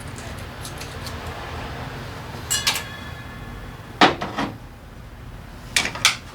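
Metal parts and hand tools being handled during engine work: a clink with a short ring about two and a half seconds in, a sharp knock at about four seconds followed by a couple of lighter taps, and two more knocks near the end, over a steady low hum.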